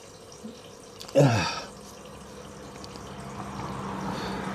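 A short vocal sound from a person about a second in, falling in pitch, then a steady low hum that slowly grows louder.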